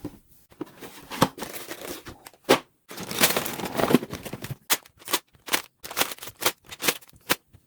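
Packaging of a LEGO set being opened: crinkling and tearing of the box and plastic parts bags, with many short sharp clicks that come quicker in the second half.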